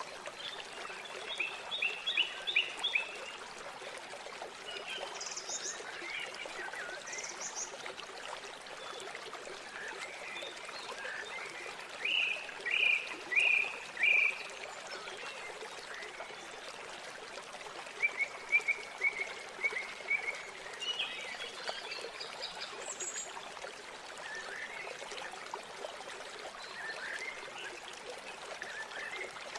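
River water flowing steadily, with small birds chirping in several short bursts of quick repeated notes over it, the loudest a few seconds in, around the middle and again a little after.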